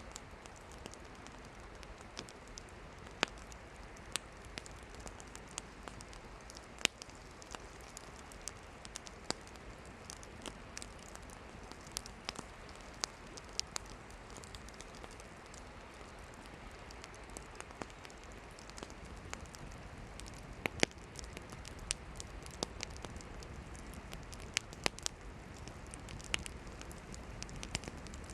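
Campfire firewood burning, crackling and popping irregularly over a steady hiss, with a few sharper, louder pops scattered through.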